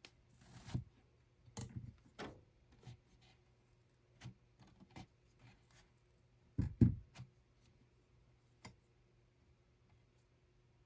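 Irregular light clicks, rubs and wooden knocks of hands working at a weaving loom, with a heavier double thump about seven seconds in. A faint steady hum runs underneath.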